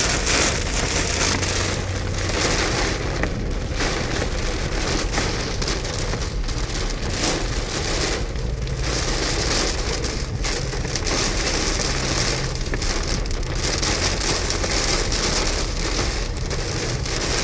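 Heavy rain beating on a moving car, heard from inside the cabin as a loud, steady hiss of rain on the roof and windshield.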